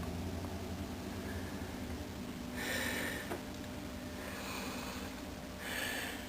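A person breathing near the microphone: three short breaths or sniffs, about a second and a half apart, over a steady low hum.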